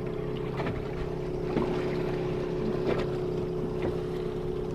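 Boat engine running with a steady hum.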